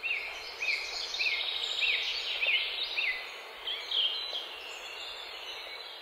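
Wild birds singing outdoors over a steady background hiss. A run of short rising-and-falling chirps comes about twice a second for the first three seconds, with other birdsong higher above.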